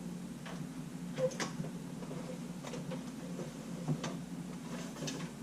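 Scattered light clicks and taps of small camera parts and bodies being handled on a workbench, a sharper knock about a second in and another near four seconds, over a steady low hum.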